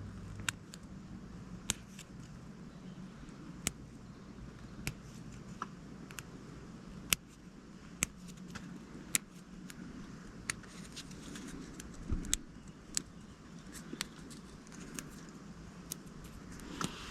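Irregular sharp clicks and taps, roughly one a second, from handling cards and stickers, over a low steady hum.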